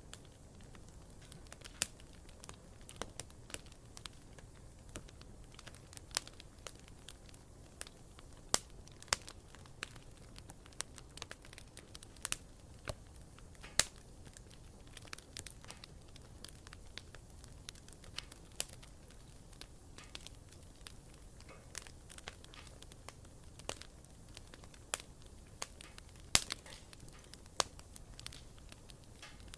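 Wood fire crackling, with irregular sharp pops and snaps, several louder ones scattered through, over a steady low rush of burning.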